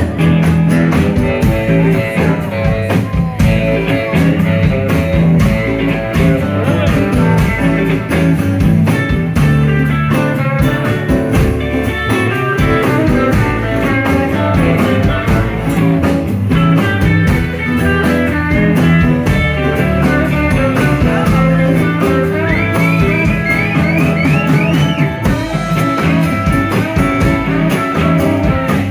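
Live blues band playing an instrumental break between sung verses, with a guitar carrying the lead. It plays bent notes about three-quarters of the way through.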